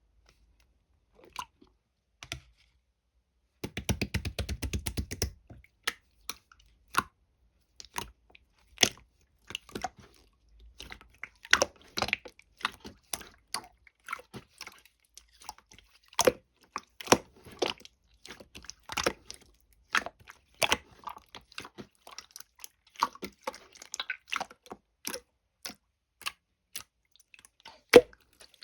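Clear slime being worked by hand: irregular sticky clicks and pops as it is pressed and stretched, with a quick run of rapid crackling about four seconds in.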